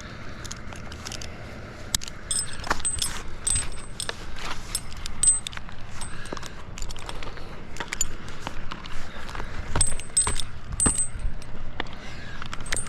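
Metal climbing hardware such as carabiners and rings jingling and clinking on a tree climber's harness as he climbs, with many short sharp clicks and knocks.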